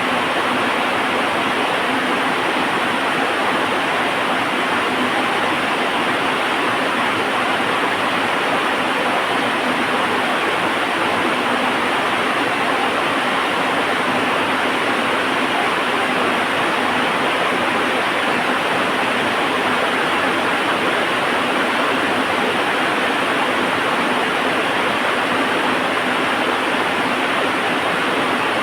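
Heavy rain falling steadily, an even rushing hiss without distinct drops, crackles or thunder standing out.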